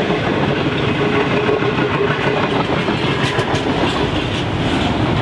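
Container wagons of a long intermodal freight train rolling past close by: a loud, steady rumble of steel wheels on rail, with the wheels clicking over the track.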